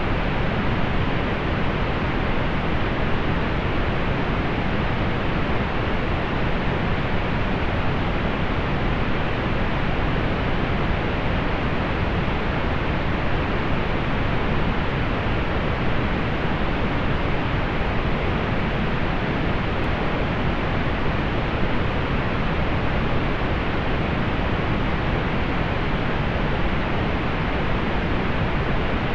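Steady, unchanging pink noise: an even hiss, strongest in the low end and thinning out in the highs.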